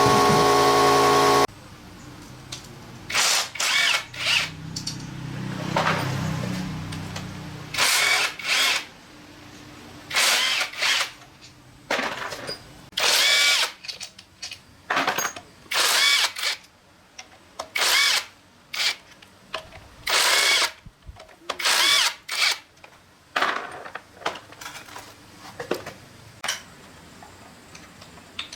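A power drill run in many short, stop-start trigger bursts, each under half a second, spaced irregularly about a second apart. Before the bursts, a loud steady drone cuts off suddenly about a second and a half in.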